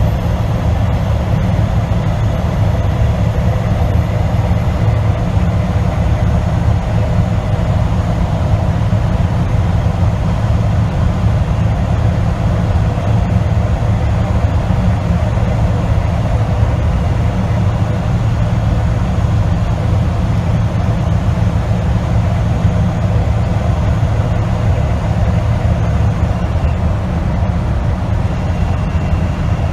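Tractor-trailer driving on the highway: a steady low drone of diesel engine and road noise, unchanging throughout.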